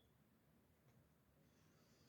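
Near silence, with a faint high bird twitter in the last half second.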